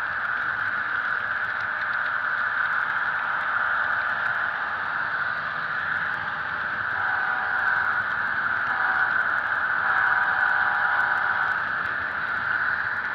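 HO-scale model train running along the track, a steady whirring rattle of its wheels and motor. About seven seconds in, the diesel locomotive's Soundtraxx Tsunami sound-decoder horn sounds three times, long, short, long, through the model's small speaker.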